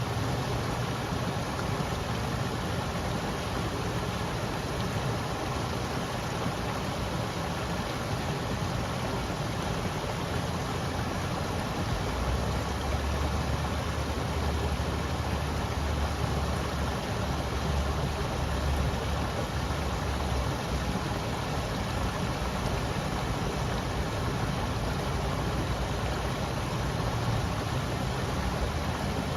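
River water rushing steadily, a constant even hiss-like flow. A low rumble joins in for several seconds around the middle.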